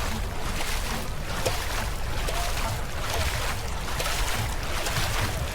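Dragon boat paddles splashing in unison, a little over one stroke a second, over a steady low rumble.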